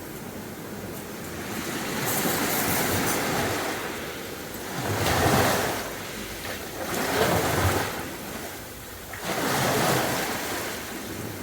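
Sea waves breaking and washing up the beach, the hiss of surf swelling and falling back in surges every two to three seconds.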